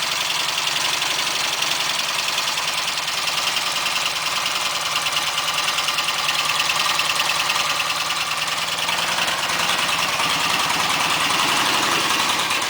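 1959 Matchless G15/45 750 cc parallel-twin motorcycle engine running steadily with a fast, even exhaust beat.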